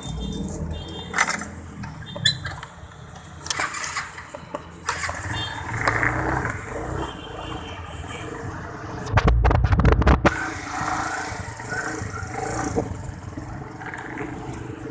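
Motorcycle engine being started about nine seconds in: a loud low burst with rapid pulses lasting about a second. Before it come scattered knocks and handling noises.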